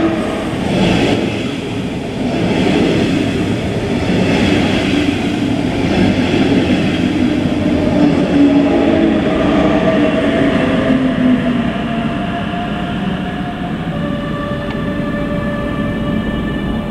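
A train passing through a station: continuous rolling noise with several steady humming tones that shift to new pitches near the end.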